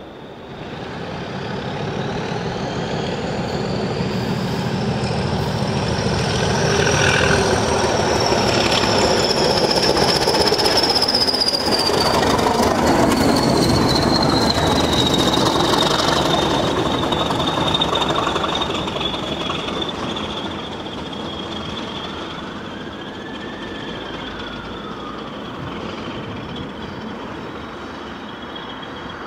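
A train passing close by on the rails, its running noise swelling over the first several seconds, staying loud through the middle and easing off towards the end. A high thin whine rides over it, climbing in pitch at first and then slowly falling.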